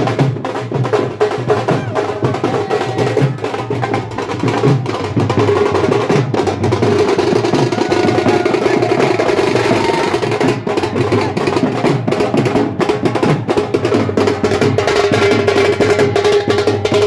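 Loud festival music with fast, dense drumming and a steady held note.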